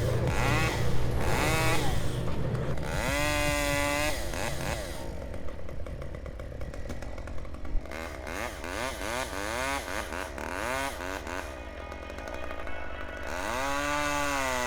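Chainsaw revving up and down, its pitch rising and falling with each squeeze of the throttle, strongest a few seconds in and again near the end.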